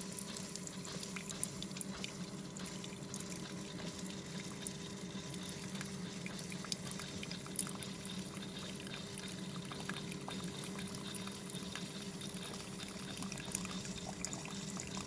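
Single-serve K-cup coffee maker brewing: its pump hums steadily while hot coffee streams into the mug.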